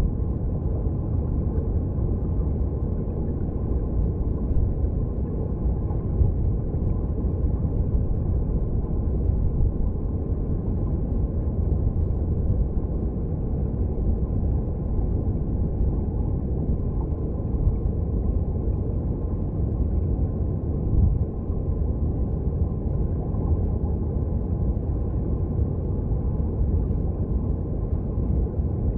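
Mountain stream recorded underwater: a steady, low, muffled rumble of flowing water, with almost nothing in the high range.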